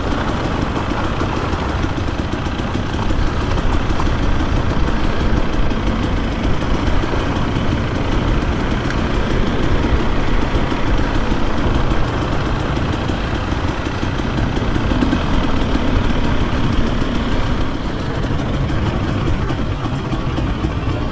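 Dirt bike engine running while the bike is ridden along a trail, its level rising and falling slightly as the throttle changes.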